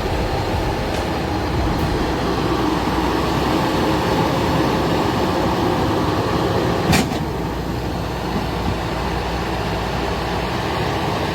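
Heavy machinery engine running with a steady rumble, with one sharp knock about seven seconds in.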